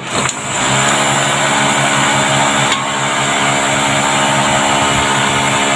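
A small high-speed electric motor spins up about half a second in and runs loud and steady, with a whine over a strong rushing noise, stopping near the end.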